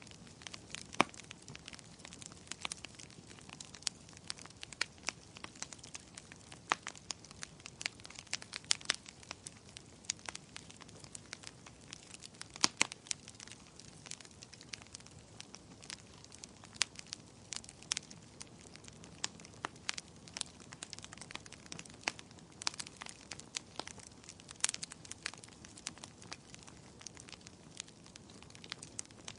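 Wood fire burning in a fireplace, crackling and popping irregularly over a soft steady hiss, with a few sharper, louder pops.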